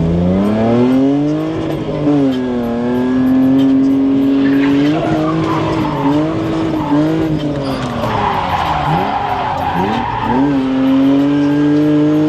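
Drift car's engine revving up and down as it holds a slide, with tires squealing in two stretches, about five seconds in and again from about eight to ten seconds in.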